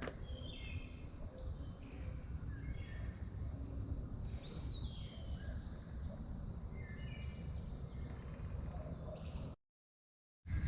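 Songbirds singing in short, repeated phrases over a steady insect hum and a low rumble, with one rising-and-falling call about four and a half seconds in. All sound drops out abruptly near the end.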